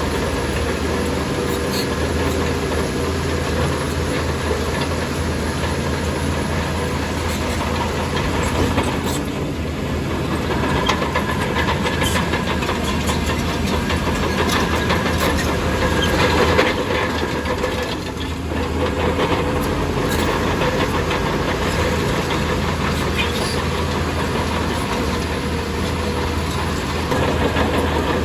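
Heavy diesel earthmoving machinery running steadily, with scattered clanks and knocks. It swells briefly a little past halfway, then eases off.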